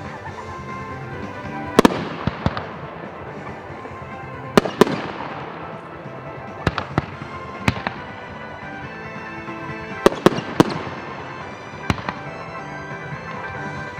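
Aerial firework shells bursting with sharp bangs, each trailed by a crackling fizz. A quick run of three bangs comes about ten seconds in. Background music with a steady melody plays underneath.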